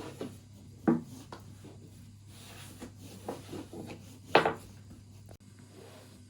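A few short knocks and rubbing sounds of kitchen work on a wooden surface, over a steady low hum; the two loudest knocks come about a second in and about four and a half seconds in.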